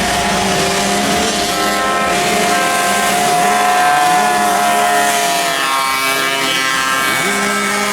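Several motocross bike engines running hard at once. One holds a steady high pitch for about the first five seconds, while others rev up and drop back again and again.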